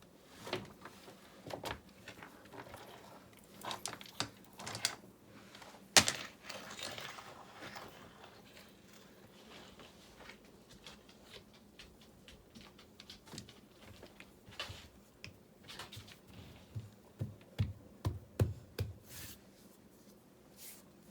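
Irregular clicks, knocks and scrapes from hand work with stones and mortar, with one sharp knock about six seconds in and a few dull thumps near the end.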